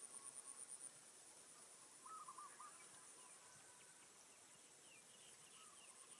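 Faint outdoor wildlife sounds: a high, pulsing insect trill, strongest at the start. About two seconds in comes a short run of three or four low hooting notes from a bird. Later there are thin, high, falling chirps from small birds.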